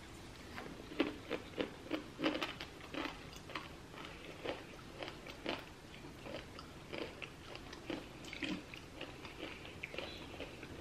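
A person chewing a mouthful of small crunchy snack pieces. The crunches come thick and fast in the first few seconds, then thin out into softer, scattered chewing.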